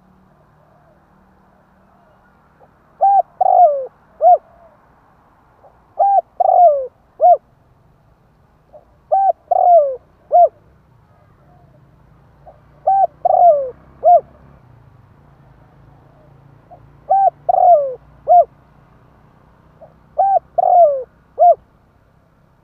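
Spotted dove cooing: six repeated phrases, each a few short coos with a longer falling coo in the middle, coming about every three to four seconds.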